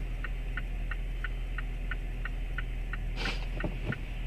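A car's indicator flasher ticking evenly, about three clicks a second, over the low hum of an idling engine. A brief rustle of noise comes a little past three seconds in.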